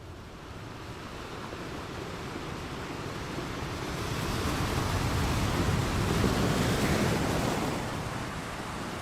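Ocean surf rushing in a wave that swells over several seconds and then eases back near the end.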